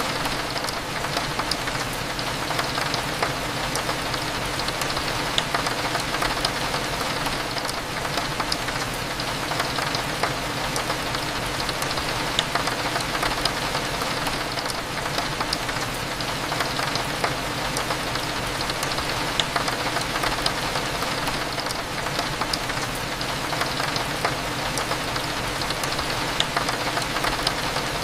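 Steady rain on a window, with many small separate drop ticks over an even hiss and a low steady hum underneath.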